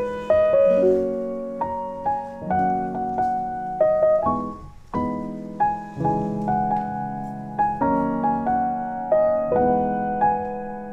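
Background music: a gentle piano piece playing chords and a melody, with a short pause about halfway through.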